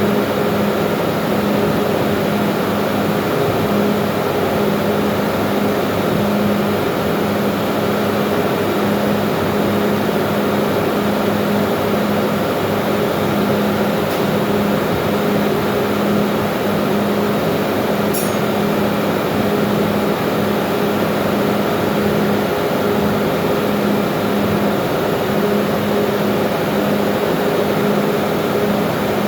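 Loud, steady machinery drone of running engine-room machinery, with a constant low hum near 200 Hz over a dense mechanical rush. It does not change in pitch or level.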